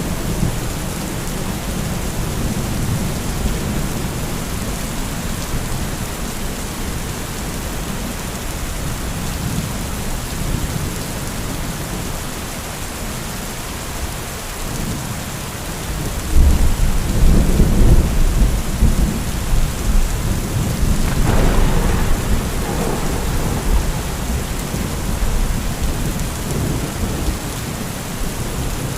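Heavy rain falling steadily, with thunder rumbling low throughout. A little past halfway a loud peal of thunder breaks in, swells again a few seconds later, then rolls away.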